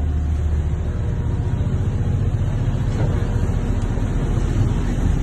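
Diesel engine of a longline fishing boat running steadily under way, a loud low rumble with a fast even pulse.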